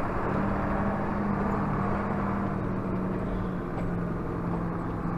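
John Deere tractor's diesel engine running steadily at an even pitch, heard from inside the cab while driving.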